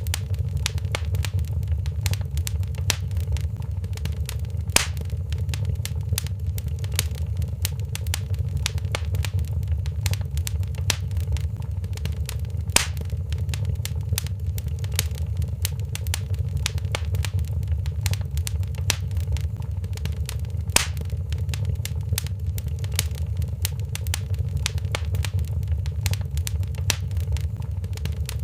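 Wood fire in a fireplace crackling: a dense run of small pops and ticks, with a few louder snaps roughly every eight seconds, over a steady low rumble.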